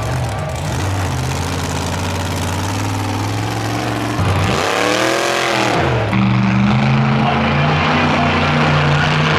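Monster truck engine running and revving: a little after four seconds in its pitch swings up and back down, then it settles into a steady, louder run.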